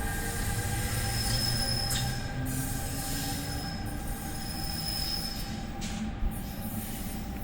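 Passenger train rolling through with a steady high-pitched wheel squeal in several tones over a low rumble of wheels on rail, easing off slightly.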